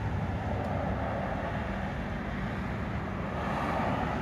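A car engine running in a steady low hum, swelling slightly near the end.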